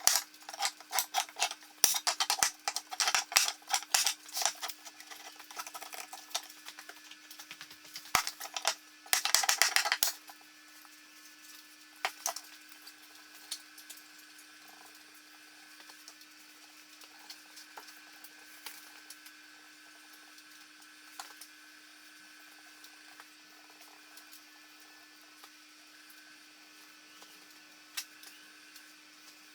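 Workshop handling noise: a rapid run of clicks and knocks from wood and tools for about ten seconds, ending in a louder cluster, then only a few scattered ticks over a steady low hum.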